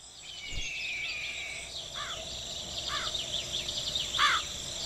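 Birds chirping over a steady insect trill, with a longer whistled note near the start and short rising-and-falling chirps about once a second.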